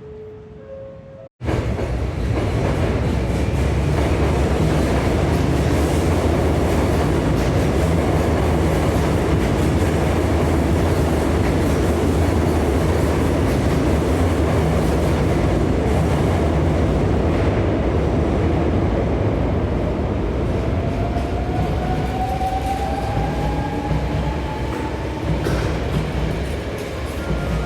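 A few faint tones of a station chime cut off about a second in. Then an electric commuter train runs close by, loud, with a deep rumble and wheel clatter on the rails. A rising motor whine comes in about two-thirds of the way through.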